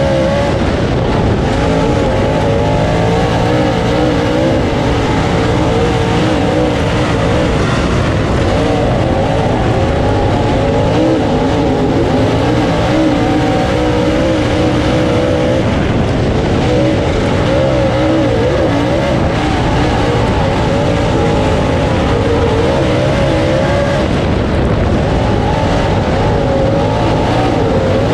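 Dirt late model race car's V8 engine heard from inside the car, running hard with the revs rising and falling over and over as it laps the track.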